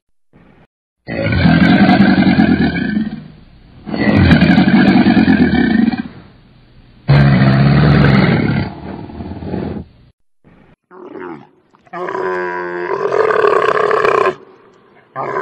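Crocodile bellowing three times, each a loud low call of about two seconds. Near the end it gives way to a camel's throaty, pulsing grumble.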